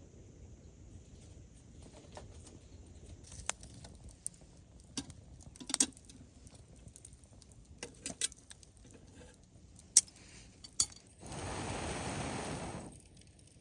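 Scattered light metallic clinks and taps, like camping gear or metal cookware being handled, followed near the end by about two seconds of steady rushing noise.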